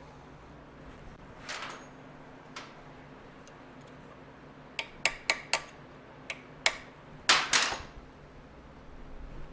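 Tools and metal parts being handled during a motorcycle teardown: a short scrape, a single click, then a quick run of sharp metallic clicks and a louder rattling scrape near the end.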